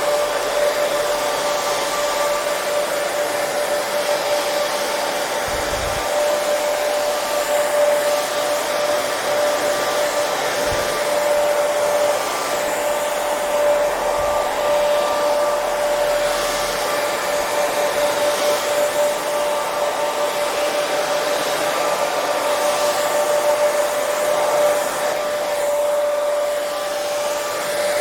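Hair dryer running steadily: an even rush of airflow with a constant motor whine.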